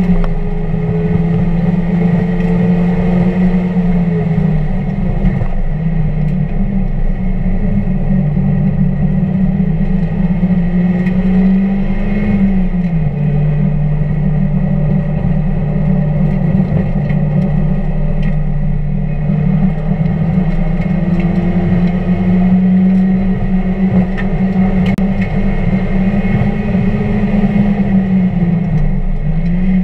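1999 Mazda Miata's 1.8-litre four-cylinder engine running hard on track. Its pitch drops and climbs back a few times, about 4, 13 and 29 seconds in, under a steady wash of road and wind noise.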